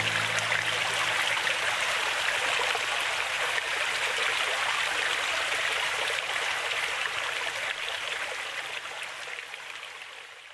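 Stream water running steadily, fading out near the end.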